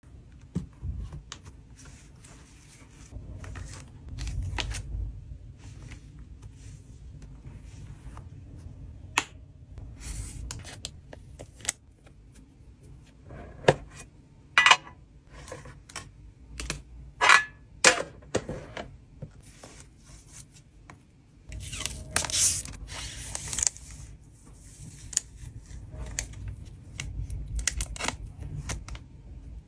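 Collectible cards and their plastic packaging being handled for shipping: crinkling and rustling, with scattered sharp clicks and taps that come thickest in the middle and again later. A low rumble of wind noise on the microphone runs underneath.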